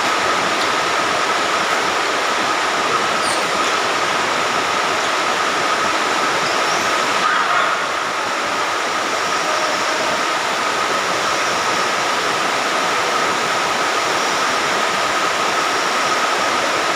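Steady rain falling, an even hiss that holds at one level, with a thin steady whine running through it.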